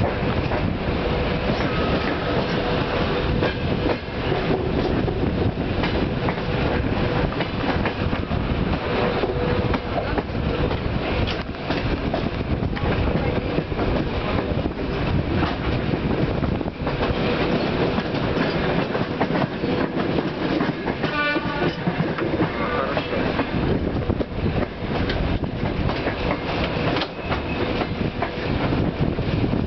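Passenger train coaches rolling at low speed, wheels clattering and knocking over rail joints and points, heard from aboard. About two-thirds of the way through, a brief series of rapid repeated high tones sounds.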